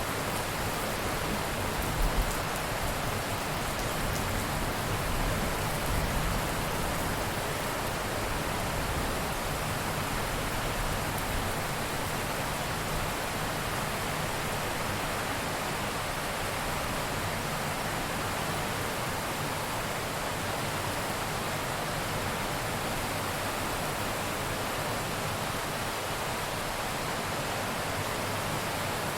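Steady heavy rain, an even hiss of downpour, with brief low rumbles about two and six seconds in.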